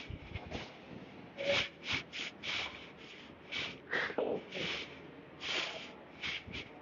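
A man's short, sharp breaths, a dozen or so in quick succession, as he works through a heavy barbell set.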